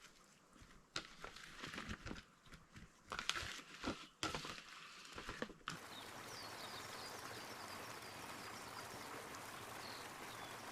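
Scattered clicks and rustles for the first half. Then, after a sudden change, a steady hiss of running water with small birds chirping faintly over it.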